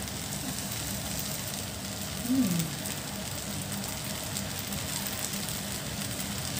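Fried rice vermicelli sizzling in a wok on the stove: a steady hiss. A brief low falling sound comes about two seconds in.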